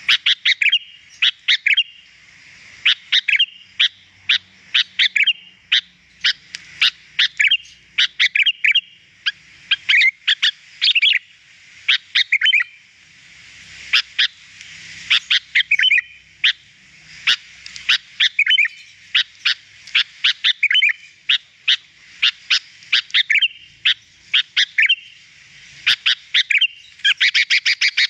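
Sooty-headed bulbul (kutilang) singing: phrases of sharp, quick chirping notes broken by short pauses, with a fast run of chirps near the end.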